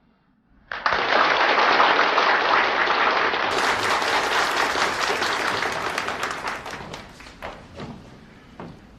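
An audience applauding. The clapping breaks out suddenly about a second in, then dies away to a few scattered claps near the end.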